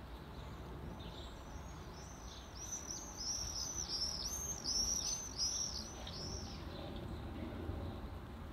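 A songbird singing a quick run of high, arching chirps, about three a second, starting about two seconds in and lasting around four seconds, over faint background noise.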